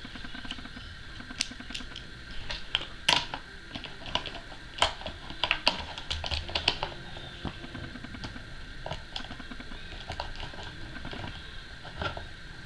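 Irregular light clicks and taps of a UTG bipod being handled and fitted to a rifle's mount, clustered in the middle and with one more near the end.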